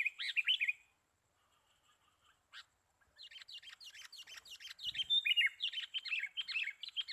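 Sooty-headed bulbuls chirping: a short burst of quick notes at the start, then from about three seconds in a long run of rapid, closely spaced notes.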